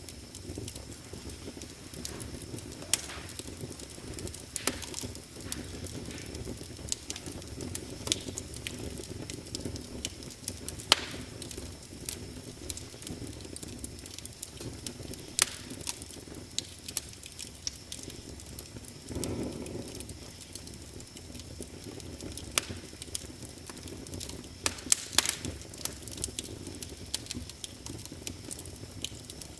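Fireplace fire crackling: irregular sharp pops and snaps over a low steady rush of flames, with a brief louder flare about two-thirds of the way through.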